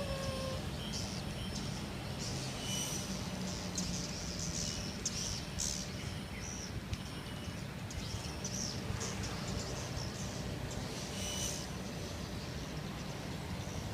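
Swiftlets chirping: many short, high twittering calls scattered throughout, over a steady low rumble.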